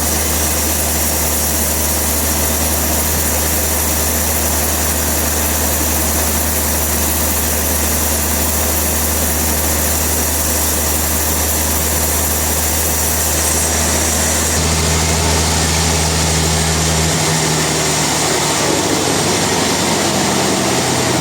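Industrial sawmill machinery running: a loud, steady mechanical drone with a low hum. The sound changes about fifteen seconds in, as the high hiss drops away and a new steady tone comes in.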